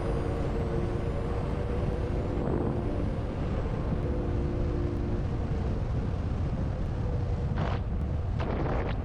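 E-bike ride with wind buffeting the microphone as a steady low rumble, over which the hub motor's electric whine runs for the first half and then fades. A few short hissing surges come near the end.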